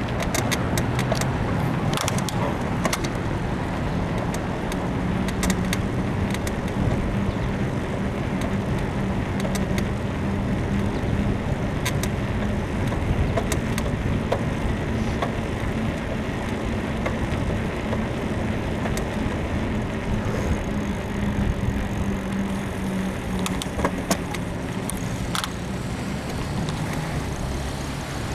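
Riding a bicycle: steady wind and tyre noise, with irregular clicks and creaks from the frame, which the rider puts down to a worn suspension bushing. A steady low hum runs under it and fades out about twenty seconds in.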